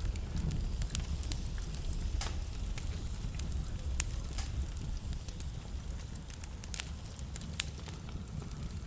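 Wood fire burning in a fireplace: a steady low rumble of flames with frequent sharp crackles and pops from the burning logs, a few louder pops standing out.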